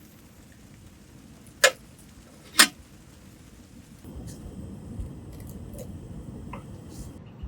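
Two sharp clicks about a second apart, then a low steady rumble that grows slightly louder about halfway through, with a few faint ticks.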